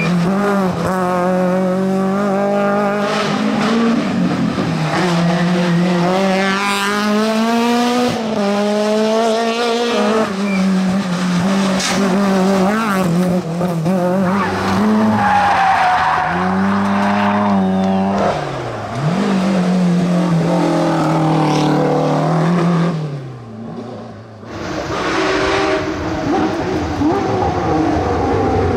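Rally car engines at full throttle on a stage, revving up through the gears with the pitch climbing and dropping back at each shift, with some tyre squeal. The sound briefly falls away about three-quarters of the way through, then picks up again.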